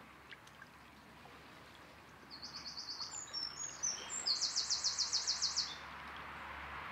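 A small songbird singing two fast trills of repeated high notes, the second about four seconds in longer and louder, over the steady rush of a shallow stream.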